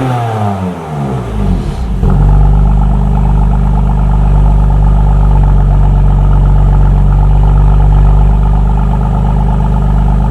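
BMW M2 Competition's twin-turbo inline-six engine and exhaust revving, its pitch dipping and climbing, then about two seconds in held at a steady, loud engine speed.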